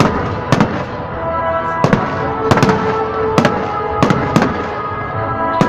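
Fireworks display: aerial shells bursting in a string of sharp bangs at irregular intervals, about eight in a few seconds.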